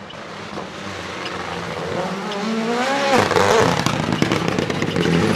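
Rally car approaching under hard acceleration, getting steadily louder as it nears. Its engine note climbs, drops sharply about three seconds in at an upshift, then climbs again, with another shift near the end.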